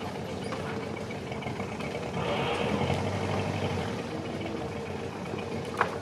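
Boat engine idling steadily, swelling a little about two seconds in, with a sharp knock near the end.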